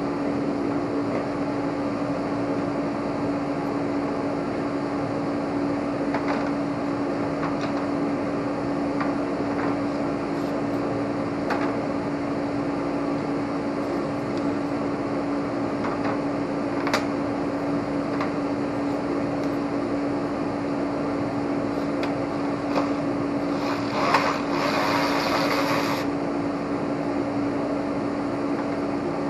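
A steady machine hum with one constant tone, with scattered faint clicks and a louder hiss lasting about two seconds near the end.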